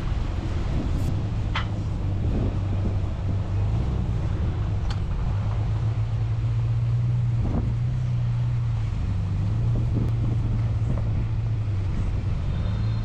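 Toyota Prado engine running with a steady low drone as the 4x4 drives along a trail, with a few short knocks.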